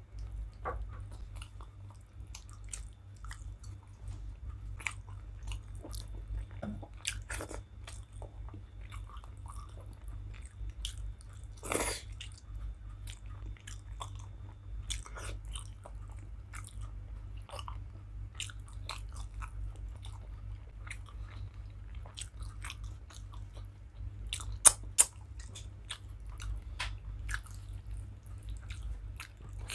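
A person chewing and eating a meal of rice and curry, with many small wet mouth clicks and smacks and a few louder bites about twelve and twenty-five seconds in. A steady low hum runs underneath.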